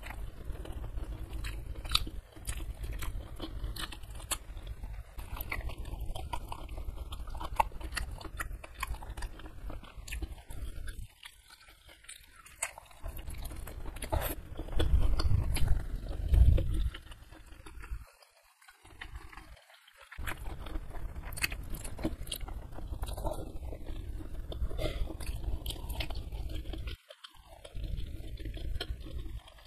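Close-miked chewing and biting of gelatinous beef-foot curry (gulai kikil), full of wet mouth clicks and smacks. A louder spell of chewing comes about halfway through, with a few brief pauses.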